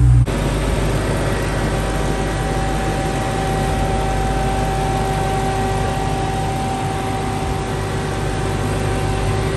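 Supercharged 6.2-litre HEMI V8 of a 2022 Hellcat Redeye running at a steady idle with a steady whine over it, after dropping from a louder level about a quarter second in. The owner takes the way it runs for a slight misfire.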